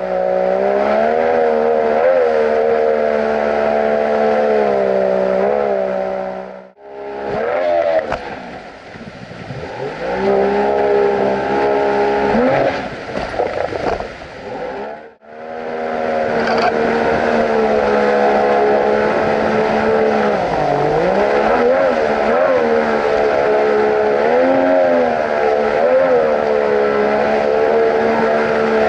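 Outboard jet motor of an inflatable jet boat running under way, its pitch rising and falling with the throttle. The sound cuts off abruptly twice, about 7 and 15 seconds in, and is quieter and more unsteady between those two cuts.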